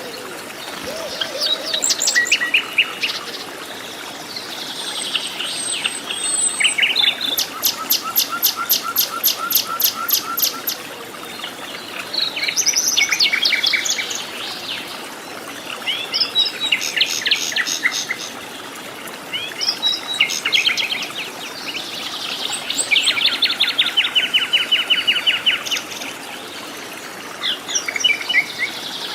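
Several wild birds singing and calling in turn: a series of rapid trills and chirps, a new phrase every few seconds, over a steady background hiss.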